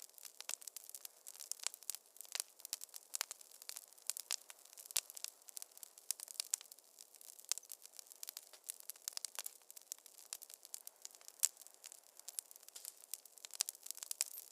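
Wood fire crackling in a fireplace: a steady scatter of sharp, irregular snaps and pops over a faint hiss, a louder pop about eleven seconds in.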